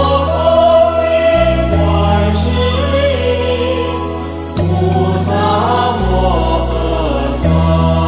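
Buddhist devotional song praising Guanyin, sung by voices over sustained low bass notes that change every second or two, with light percussion strokes.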